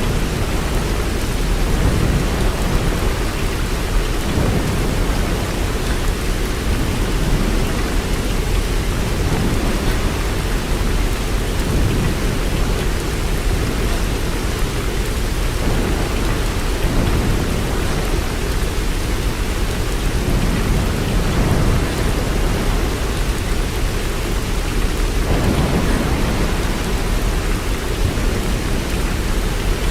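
Steady rain with a constant low rumble underneath that swells and eases every few seconds.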